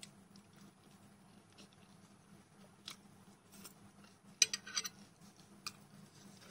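Soft, close-miked chewing of a mouthful of sausage with faint wet mouth clicks. About four and a half seconds in, a short burst of sharp clicks from metal chopsticks knocking together and against the plate.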